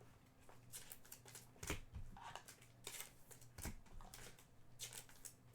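Faint rustling, sliding and light clicks of trading cards and packs being handled, over a steady low hum.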